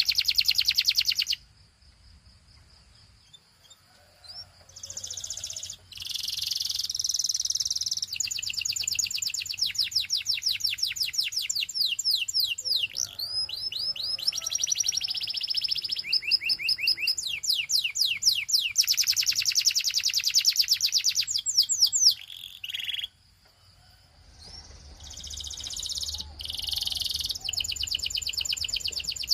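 Domestic canary singing: long runs of fast trills made of rapid, high repeated notes that slide downward. The song breaks off twice, briefly near the start and again about two-thirds of the way through.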